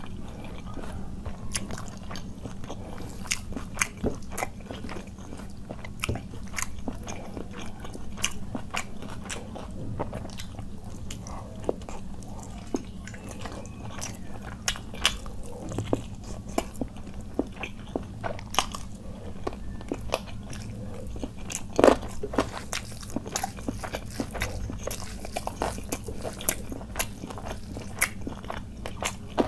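Close-miked mouth sounds of a person eating khichuri, chicken curry and beguni (battered fried aubergine) by hand: chewing, wet lip smacks and some crunching, heard as an irregular run of short sharp clicks. One click about three-quarters of the way through is louder than the rest.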